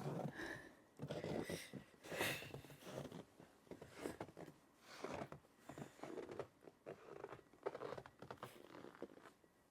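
Footsteps crunching in snow, a steady series of soft crunches about once or twice a second.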